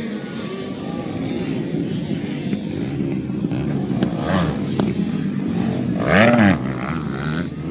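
Several 85cc two-stroke motocross bikes racing, engines revving. About six seconds in, one bike revs close by, its pitch rising and then falling; this is the loudest moment.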